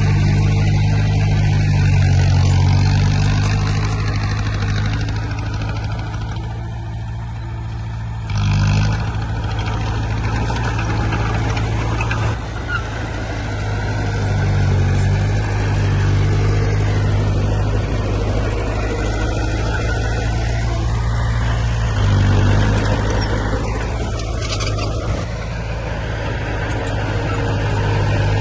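Heavy earthmoving machinery engine running throughout, its level swelling and easing as the load changes, with a short louder burst about eight seconds in.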